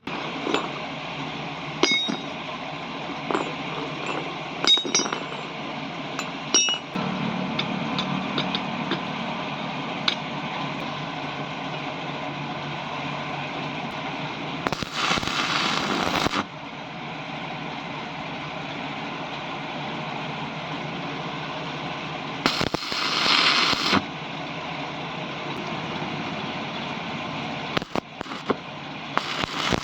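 Electric arc welding on steel pipe: a continuous crackling hiss with scattered sharp clicks, swelling twice into louder sizzling bursts.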